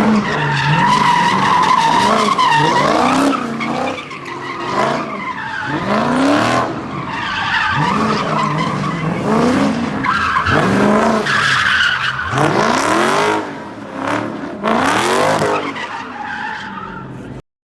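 A car spinning its tires at a street sideshow: the engine revs up again and again over continuous tire squeal. The sound cuts off suddenly near the end.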